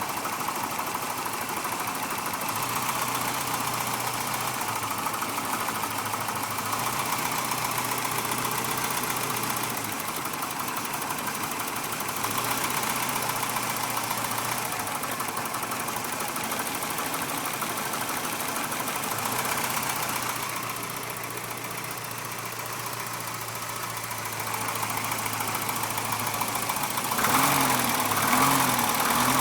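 Lesharo motorhome engine idling with a knock that the owner suspects is rod knock; it sounds the same as injector harnesses are pulled one at a time. It gets louder and uneven in pitch near the end.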